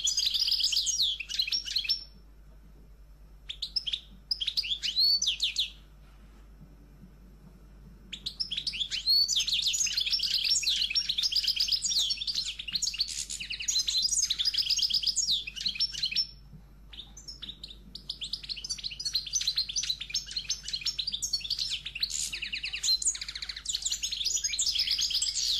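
Birds chirping and singing in dense, rapid runs of high chirps, in long bouts broken by a few short pauses.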